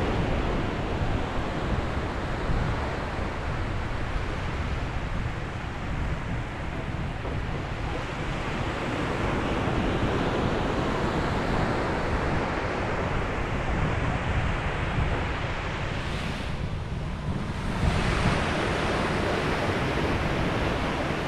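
Ocean waves breaking and washing on a beach, a steady surf noise that swells and eases, with wind buffeting the microphone.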